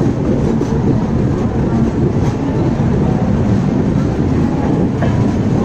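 Express train of LHB passenger coaches running along the track: a steady, loud rumble of wheels on rails.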